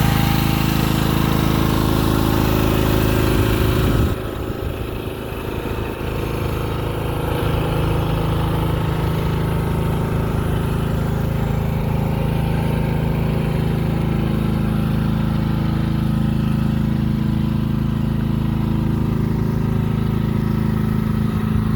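Small gasoline engine of a mini excavator running steadily. About four seconds in, the sound changes abruptly: the high hiss drops away and the level dips, then it settles back into a steady running note.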